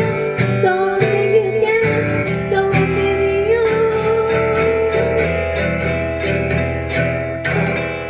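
Acoustic guitar strummed in a steady rhythm under a held melody line, closing on a final chord about seven and a half seconds in that rings on and fades.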